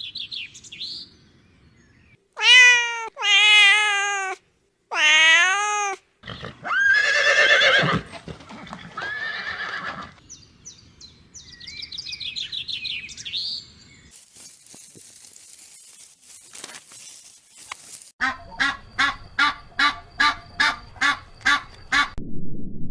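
A run of different farm animal calls in quick succession: a few long, loud calls that waver in pitch, high chirping, and near the end a quick series of short repeated calls, about three a second.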